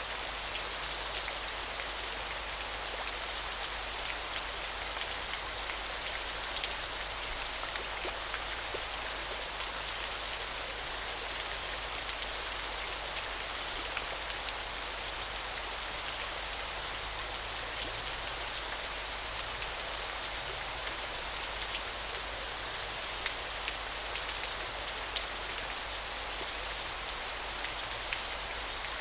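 Steady hiss of running river water. Over it, a high, thin trill sounds again and again in stretches of one to two seconds with short breaks between them.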